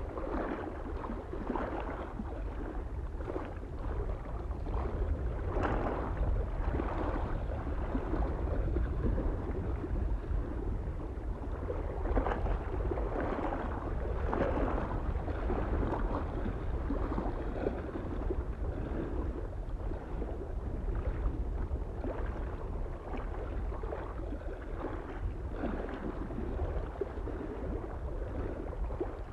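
Small waves lapping and splashing against a lake shore in irregular, overlapping wavelets, with a low steady wind rumble underneath.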